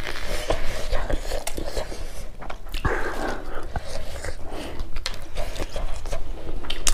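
Close-miked chewing and lip smacking of two people eating rice and curry by hand: many small wet mouth clicks and crackles, with a short breath-like hiss about three seconds in.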